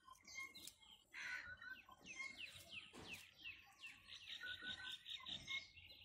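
Faint chirping of small birds, many short downward-sliding notes, with a fast run of short repeated notes about two-thirds of the way through.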